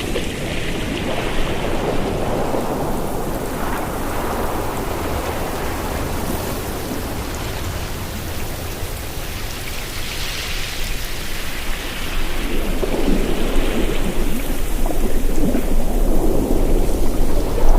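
Ocean surf washing onto the shore: a continuous rushing noise with slow surges, growing louder over the last few seconds.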